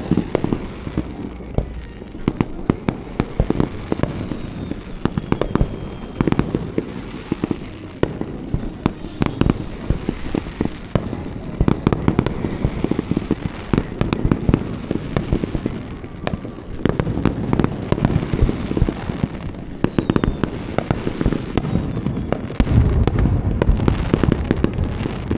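Fireworks display: a dense barrage of aerial shells bursting, sharp bangs many times a second over continuous crackling, with heavier booms near the end.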